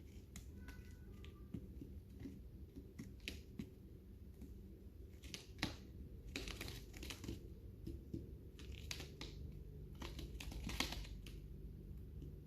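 Lovebirds cracking and husking seeds in their beaks: irregular sharp clicks and crunches, coming thicker in a couple of bursts around the middle and near the end.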